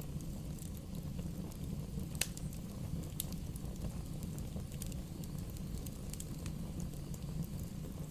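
Bonfire burning with a steady low rumble of flame. Scattered sharp crackles and pops from the burning wood come through it, the loudest about two seconds in.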